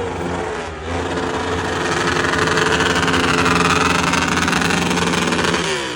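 A vehicle engine running with a steady note that builds in loudness from about a second in, holds, then drops in pitch and eases off near the end.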